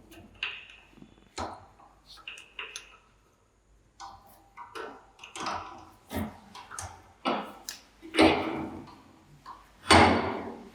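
Hand work on parts of an old electric fan: irregular clicks, knocks and short scraping strokes, the two loudest about eight and ten seconds in.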